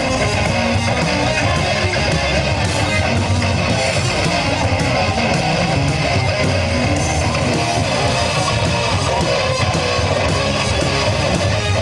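Live rock band playing an instrumental passage, led by strummed electric guitar, loud and even.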